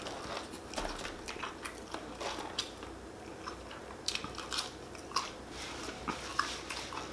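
A person chewing and biting into crispy fried chicken wings, with scattered short crunches and clicks.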